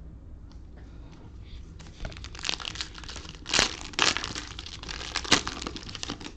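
Cellophane wrapper of a trading card pack crinkling and tearing as the pack is opened. The crackling starts about two seconds in, with the sharpest crackles about halfway through and again near the end.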